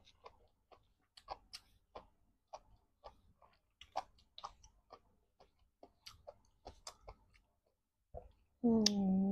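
Close-miked mouth sounds of a person eating spicy noodles: soft, irregular wet clicks of chewing and lip smacking, about two a second. Near the end, a held hum from the eater's voice.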